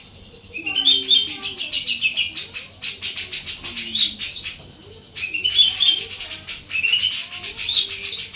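Jenggot songbird singing loud, rapid chattering phrases with quick runs of rising notes, in two long bouts broken by a short pause about five seconds in.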